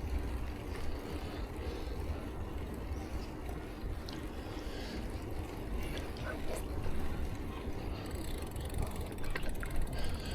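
Steady low wind rumble on the microphone with road noise from a bicycle being ridden, and a few faint ticks.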